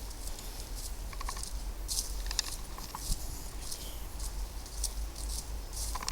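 Footsteps crunching along a path at a walking pace, about two steps a second, with a few faint short chirps.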